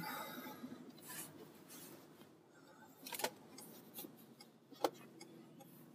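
Faint car interior noise while driving, picked up by an iPhone earphone headset's microphone, with a few sharp clicks spaced roughly a second apart in the second half.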